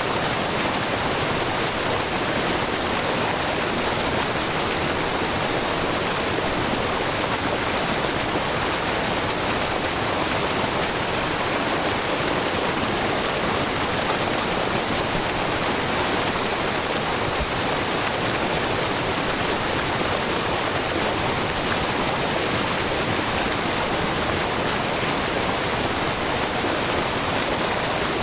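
Water from a wide, low waterfall splashing steadily onto rock and into a pool: Shiraito Falls, groundwater spilling off the rock face in many thin streams. An even, unbroken rush.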